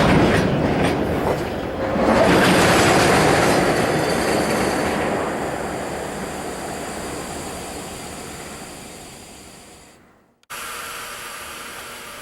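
Freight train of oil tank wagons moving along the track, with knocking from couplers and wheels in the first second or so. This gives way to a heavy rolling noise that fades over several seconds. After a sudden break in the sound near the end, only a steady hiss remains.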